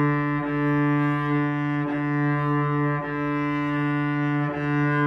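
Cello played with long, gentle bow strokes on one sustained low note, the open D string, the bow changing direction four times with a brief break in the tone at each change.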